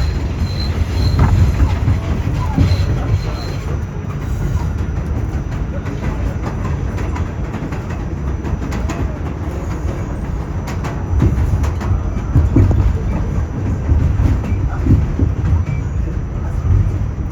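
R46 subway train running on the elevated line: a steady low rumble of wheels on rail, with irregular clacks from the wheels over the track, more of them in the second half.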